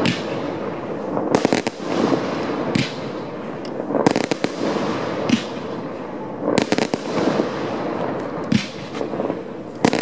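Aerial firework shells bursting in the distance. A string of sharp bangs comes about once a second, some in quick pairs, and each trails off into a long rolling echo.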